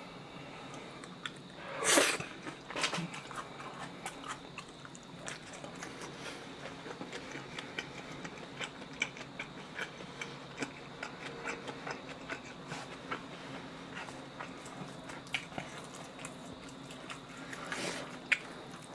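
Close-miked mouth sounds of a person eating spicy mixed noodles and sliced pork trotter: steady chewing with many small wet clicks and smacks, and a louder noisy burst about two seconds in.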